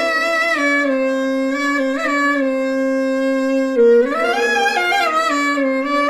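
Clarinet-like lead melody played through a Zoom B1Xon multi-effects pedal on its octave patch, each note doubled an octave apart. A long held note in the middle, then a few quicker moving notes near the end.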